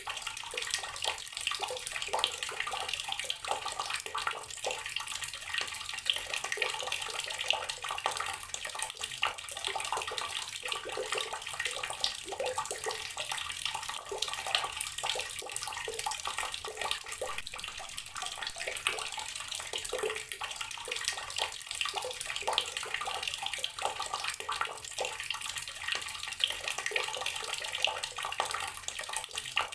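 Water running steadily from a tap and splashing, an even splashy rush with no pauses.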